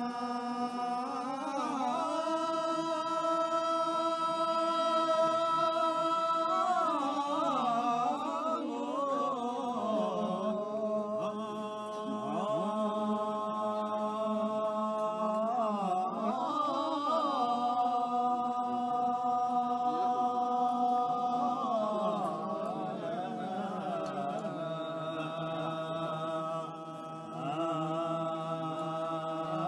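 Background music: a slow, chant-like vocal line of long held notes that slide to new pitches every few seconds, over a steady low drone.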